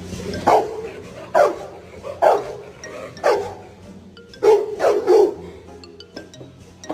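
A dog barking about six times, each bark short and falling in pitch, roughly a second apart, the last two close together.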